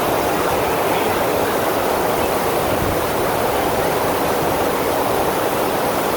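FlowRider surf machine's pumped sheet of water rushing over the ride surface, a loud, steady rush with no breaks.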